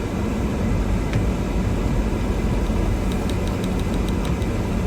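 Cabin sound of a Toyota Tundra pickup crawling through deep snow in first gear and four-wheel drive: a steady low engine and road rumble. A quick run of faint light ticks comes about three seconds in.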